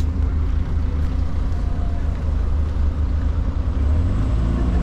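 Santa's Express ride train running, a steady low rumble with no sudden changes.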